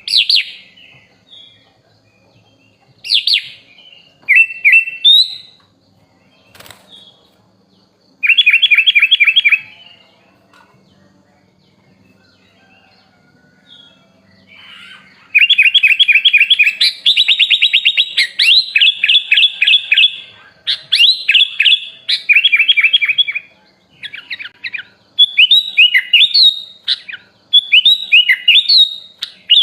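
Caged sooty-headed bulbul (kutilang) singing loud, varied phrases, with imitated songs of other birds mixed in. Short whistled notes are followed by a fast trill, a pause of several seconds, and then a long run of rapid repeated chirps and warbling notes.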